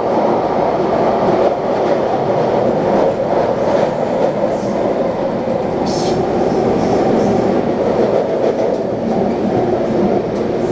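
Taipei Metro C381 train running along the line, heard from inside the car as a steady, loud rumble of wheels on rail. A brief high squeak comes about six seconds in.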